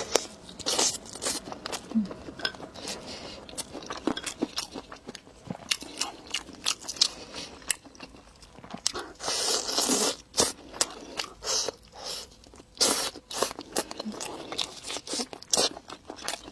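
Close-miked eating: crunchy bites and chewing, with a run of sharp clicks throughout and louder crunches about nine and thirteen seconds in.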